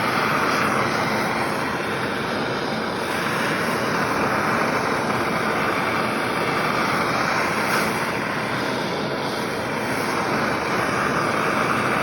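MAPP gas plumbing torch burning with a steady hiss of flame, preheating a chainsaw muffler toward dull cherry red for brazing.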